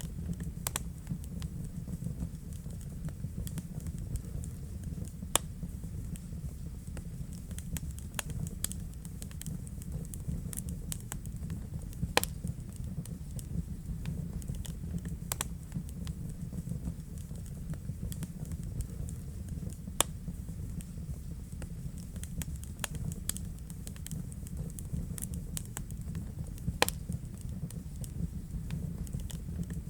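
Wood fire burning in a fireplace: a steady low rumble of the flames with irregular sharp crackles and pops, a few of them much louder than the rest.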